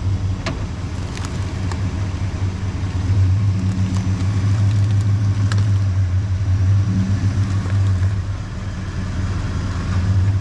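Chevrolet Suburban's engine running steadily as the truck drives slowly, growing louder a few seconds in and easing near the end, with a few light clicks over it.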